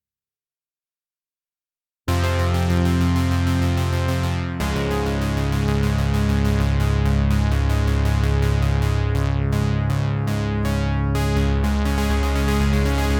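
Cherry Audio P10 software analog-style polysynth playing a poly preset: after about two seconds of silence a thick sustained chord starts suddenly, moves to a new chord about two and a half seconds later, and keeps ringing with bright repeated note attacks in its upper range.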